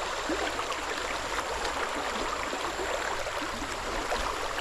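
Creek water running steadily, an even rushing with many small gurgles and trickles.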